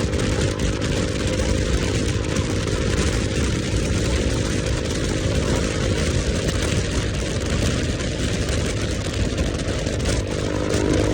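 Motorcycle engine running at a steady pitch, under a constant hiss.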